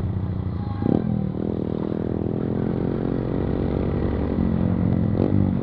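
Yamaha MT-15 BS6's single-cylinder engine running steadily through a modified loud exhaust with the dB killer removed.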